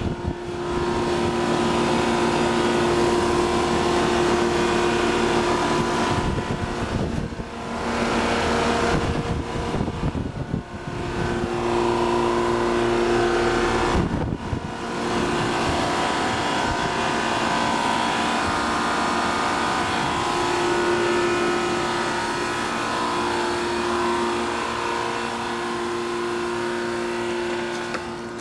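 Two Comfortmaker 2-ton central air conditioner condensing units running together under a high heat load, kind of loud: their Copeland reciprocating compressors hum with a steady tone under the rush of the condenser fans. The sound dips briefly a few times.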